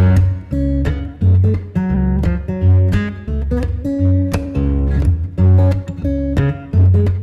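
Instrumental music led by plucked and strummed acoustic guitar, with a deep bass note on each beat in an even, unhurried rhythm.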